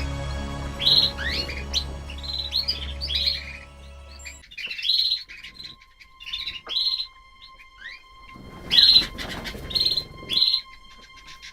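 Small birds chirping in quick, repeated calls. Background music plays under them for the first four seconds or so, then stops.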